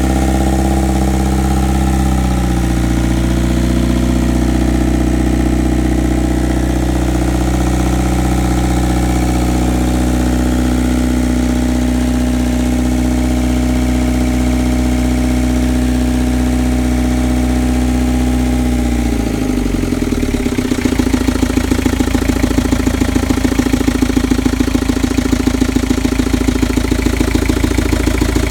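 Moody 34 sailing yacht's inboard diesel engine running steadily; about twenty seconds in its speed drops and it settles into a slower idle with a fast, even pulsing beat.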